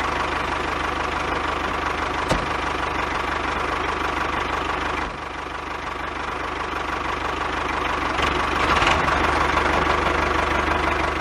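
Tractor engine idling with a steady knocking beat. It drops in level about five seconds in and builds up again from about eight seconds.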